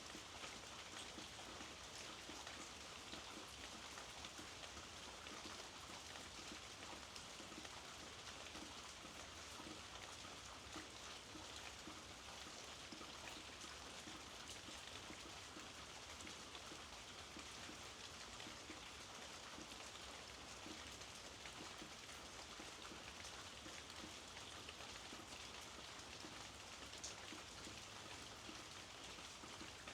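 Steady, soft rainfall, with scattered individual drops ticking against the hiss.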